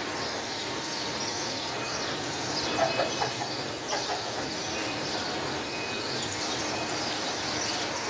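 Small birds chirping over a steady background rumble, with a few louder short calls about three seconds in.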